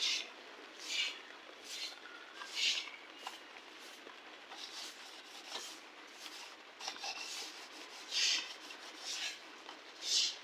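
Repeated hand scrubbing strokes on an engine cylinder head being cleaned, about one stroke a second, some stronger than others.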